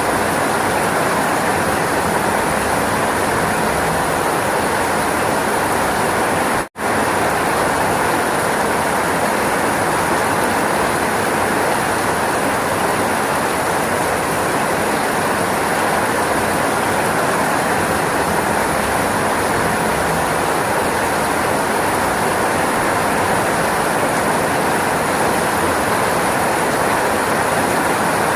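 Steady, dense rainfall, an even hiss, broken once by a split-second gap about seven seconds in.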